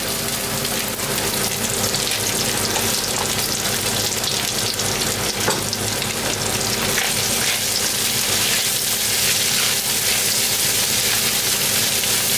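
Chicken pieces and freshly added sliced red onion sizzling steadily in hot olive oil and butter in a wok, over a steady hum. Near the end a spatula stirs the pan.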